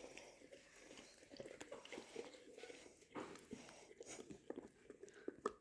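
Boxer dog eating yogurt: faint, irregular wet mouth clicks and smacks.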